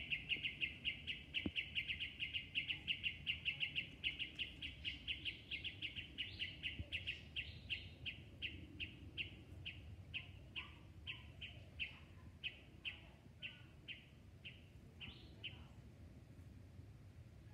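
A bird calling a long series of short, evenly spaced notes, rapid at first and gradually slowing to about two a second as it fades, then stopping shortly before the end.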